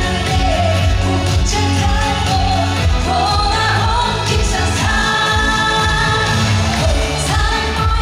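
A woman singing a Korean pop song live over an amplified backing band with a steady drum beat, holding long notes in places.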